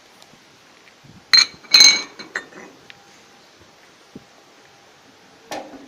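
Cast iron cooktop rings of a Termofor Statika stove clanking as they are lifted off and set down: two sharp ringing clanks a little over a second in, a few lighter clicks, and another clank near the end.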